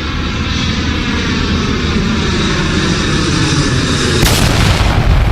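A loud, steady aircraft-like roar with a hum of several even tones, broken about four seconds in by a sudden loud boom.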